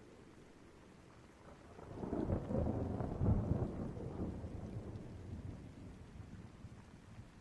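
A roll of thunder builds about a second and a half in, peaks, then rumbles away over the next few seconds, over a faint steady hiss of rain.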